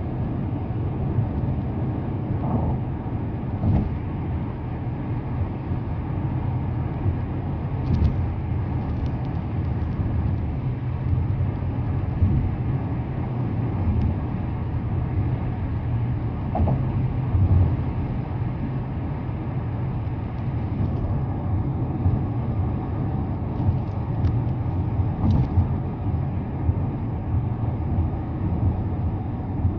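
Car driving on the road, heard from inside the cabin: a steady low rumble of engine and tyre noise, with a few faint knocks and clicks.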